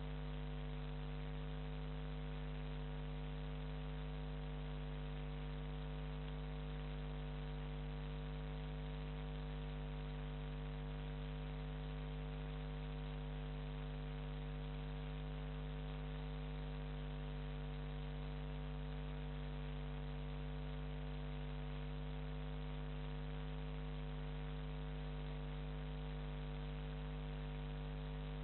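Steady electrical mains hum with hiss, unchanging throughout, with no other sound standing out.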